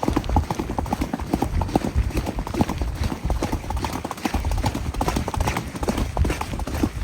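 Horse's hooves striking the ground in a quick, irregular run of hoofbeats, over a steady low rumble.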